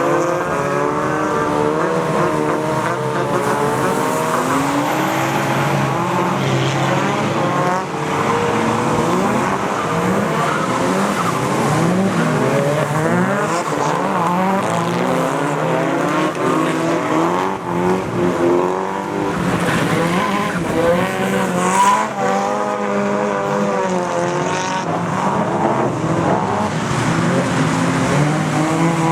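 Drift cars' engines revving hard, the pitch rising and falling again and again under on-off throttle, with several engines overlapping at once.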